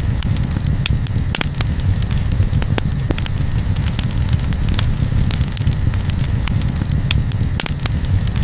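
Campfire crackling, with irregular sharp pops and snaps over a steady low rumble. A faint short high note repeats at fairly even intervals.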